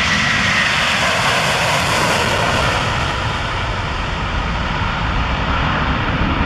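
Airbus A330 airliner's jet engines at takeoff power: a loud, steady rushing noise. A faint high whine fades out in the first second, and the level dips slightly midway.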